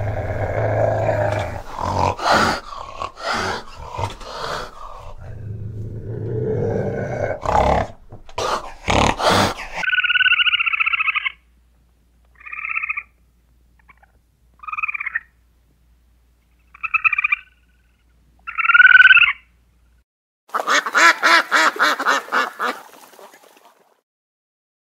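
A fishing cat growling low, broken by sharp snarls, for about ten seconds. Then a squirrel gives five short, high squeaky calls. Near the end, shelducks give a quick run of honking calls.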